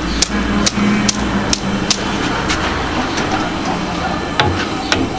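Sharp, hard knocks at about two a second, thinning out after about two seconds, over a steady low hum.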